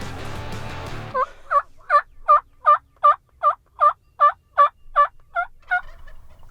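Turkey yelping: a run of about thirteen evenly spaced, loud notes, close to three a second, that starts about a second in and stops near the end.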